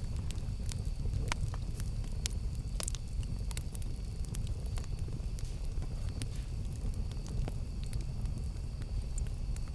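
Campfire burning with a steady low rumble of flame and scattered sharp crackles and pops of the burning wood.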